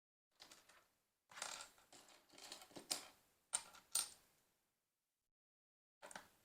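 Small plastic LEGO pieces clattering and clicking as they are handled: a short rattle, then a longer run of rattling with a few sharp clicks, and another brief clatter near the end.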